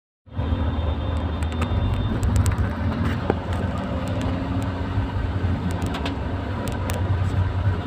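Vehicle engine and road noise while driving, a steady low hum that begins abruptly just after the start.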